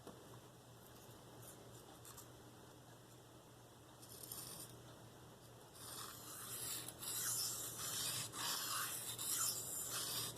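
A Spyderco Endura 4's K390 steel blade scraping across a 280-grit Venev diamond sharpening stone. There is one short stroke about four seconds in, then from about six seconds a few longer rasping swipes with brief pauses between them.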